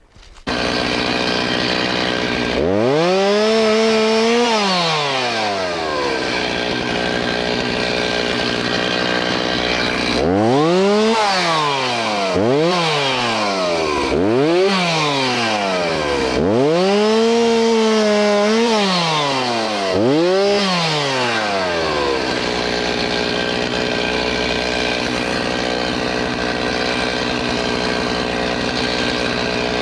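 Two-stroke chainsaw running, revved up and let fall back once a few seconds in, then revved up and down several times in quick succession, before settling to a steady idle.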